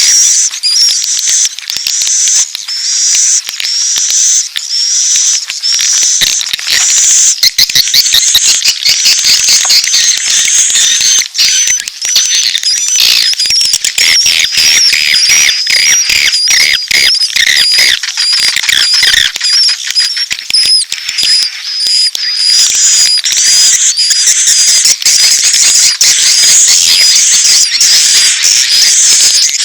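Swiftlet lure calls played loud: high, evenly repeated chirps, then many overlapping twittering and falling calls in the middle, settling back into regular chirping. It is a mix of swiftlet mating calls and chick calls of the kind played to draw swiftlets into a bird house.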